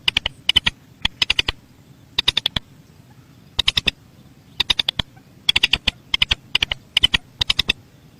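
Rail (Indonesian 'mandar sawah') calling: short bursts of three to five rapid, sharp ticking notes, repeated about once a second.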